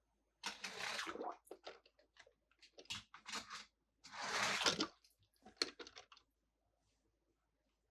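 Toy packaging and toy cars being handled during unboxing: two short rustling, crinkling bursts about half a second and four seconds in, with scattered clicks and taps of plastic between them.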